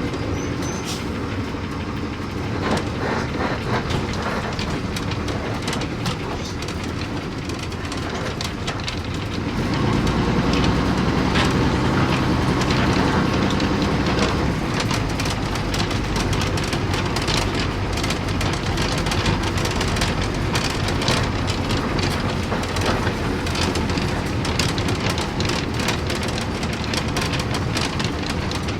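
Ride noise from inside a moving bus: the engine running with steady rattling and clicking, getting louder about ten seconds in.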